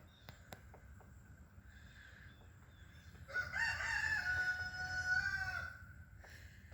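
A rooster crowing once: a single drawn-out cock-a-doodle-doo of about two and a half seconds, beginning about three seconds in.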